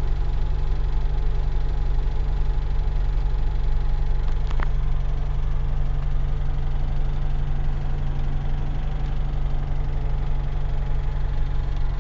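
Moskvich UZAM 1.5-litre engine running steadily at about 1500 rpm with a knock, as if something loose were hanging and tapping. This knock appeared after a rebuild and is of unknown cause. There is one brief sharp click about four and a half seconds in.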